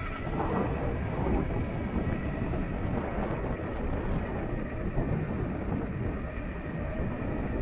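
Wind buffeting and rumbling on the microphone of a moving e-bike, an uneven steady noise with no clear motor tone.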